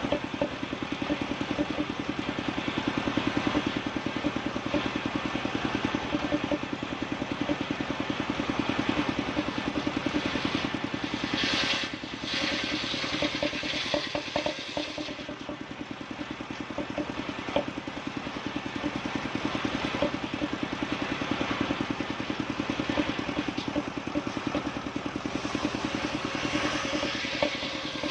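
Engine-driven sawmill wood saw running steadily with a rapid, even chugging beat. It grows louder and brighter for a few seconds about midway and again near the end.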